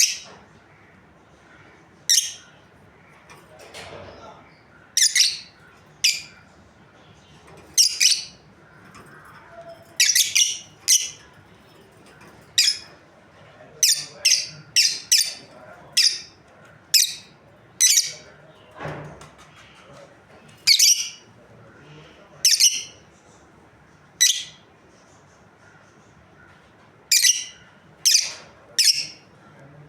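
Pet lovebirds giving short, shrill, high-pitched chirps, singly and in quick runs of two or three, at irregular intervals.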